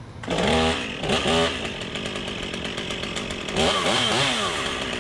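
Two-stroke chainsaw that has just fallen out of the tree, test-run on the ground: it comes in loud about a third of a second in and is revved up twice, once in the first second and a half and again near four seconds, running steadily between. It runs fine despite the fall.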